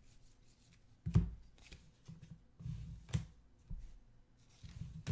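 Basketball trading cards being handled and sorted by hand: soft sliding and shuffling, with a few sharp taps, the loudest about a second in and another about three seconds in.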